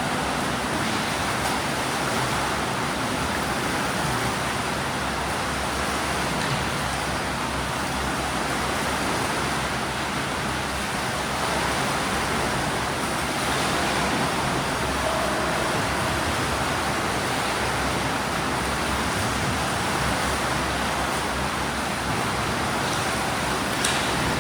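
Steady rushing and splashing of water in a swimming pool as swimmers do breaststroke drills.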